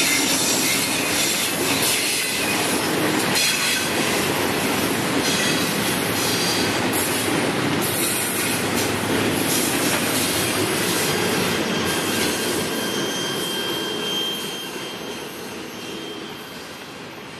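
Freight train cars rolling past on the rails: a steady rumble of wheels with clicks from the rail joints and a thin wheel squeal. The sound fades over the last few seconds.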